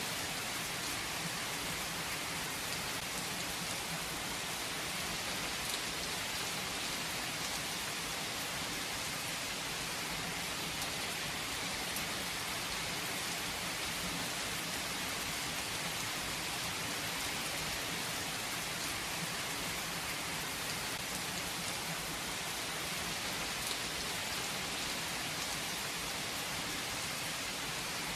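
Steady rain falling, an even hiss of rain on surfaces with no breaks or single loud drops.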